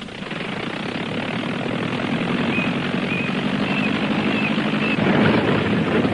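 Sound effect of an old car's engine running noisily as it drives, growing steadily louder.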